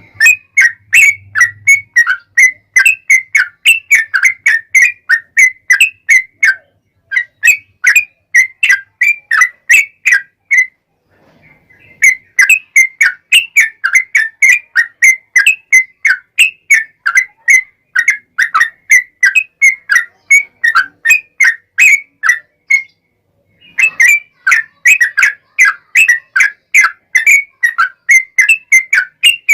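Yellow-vented bulbul (trucukan) singing a long, rapid run of whistled chirping notes, about three a second, broken by two short pauses.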